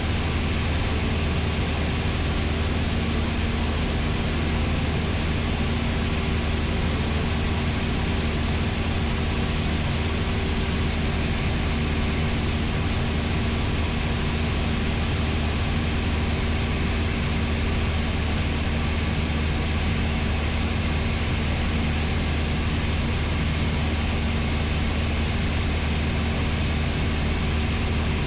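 Cessna 172's piston engine and propeller running steadily in cruise, heard inside the cabin as an even noise with a constant low hum.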